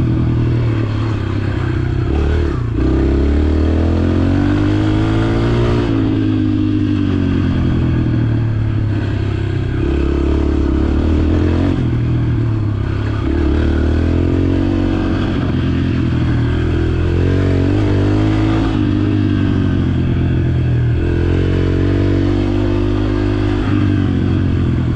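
Dirt bike engine ridden in circles in one gear, its pitch rising and falling back about every three seconds as the throttle is opened and eased off.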